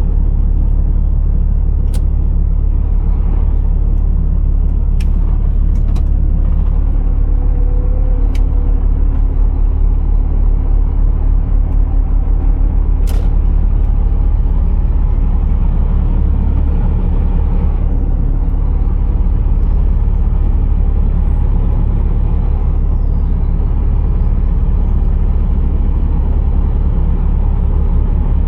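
Scania R480 truck engine running with a steady low drone, with a few faint ticks early on and a faint high whine that rises and falls three times in the second half.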